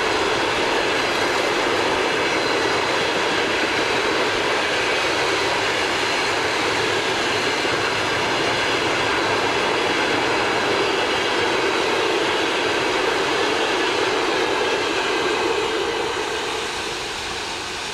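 Passenger train running along the rails as it pulls into the station: a steady, loud rush of wheels and carriages that begins to fade about sixteen seconds in.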